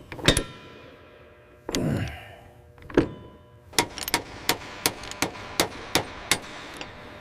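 Hand tools working on metal: a few separate knocks and a clank, then a run of evenly spaced sharp clicks, about three a second.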